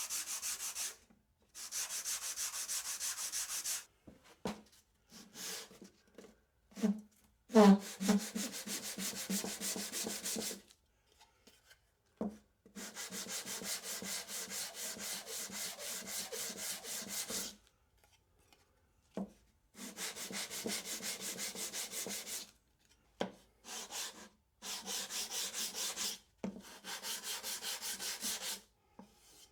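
Edge of a wooden part rubbed back and forth by hand on 220 grit sandpaper, in quick even strokes, with short pauses and an occasional knock of the part between spells of sanding.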